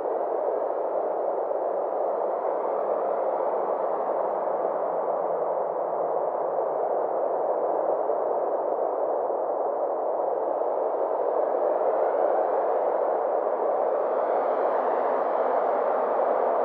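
Synthesized ambient space drone: a steady, hissing band of sound centred in the low mids, slowly swelling and sweeping in tone over several seconds.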